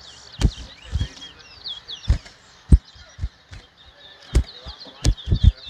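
Caged towa towa (chestnut-bellied seed finches) chirping and twittering in quick high notes, the song that is counted in a song race. Several short dull low thumps, louder than the birds, are scattered through.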